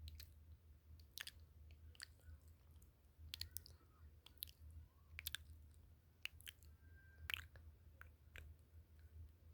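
Faint chewing: scattered small clicks and smacks over a low steady hum.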